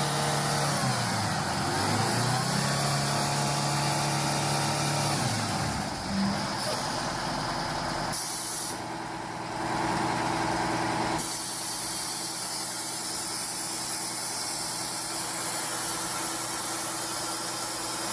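Heavy truck engine running and rising and falling in pitch as it is revved, with a steady high hiss. The sound changes abruptly several times.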